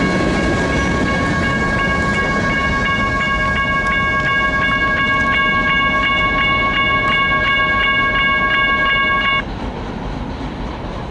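Railroad crossing bell ringing steadily at about three strikes a second over the rumble of a passing train, then stopping abruptly about nine seconds in.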